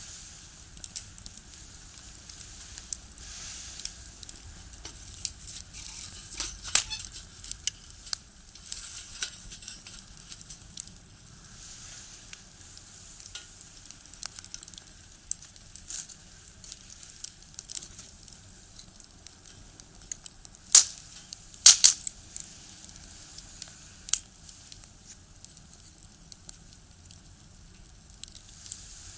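Firewood burning in a small box stove, crackling with frequent sharp pops over a steady hiss; a few louder snaps come about two-thirds of the way through.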